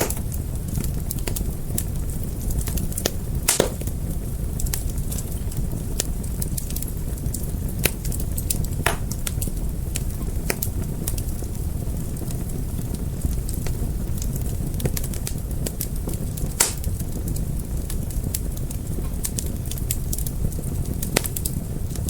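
Wood fire crackling, a steady low rumble of flames with irregular sharp pops and snaps, a few louder pops standing out.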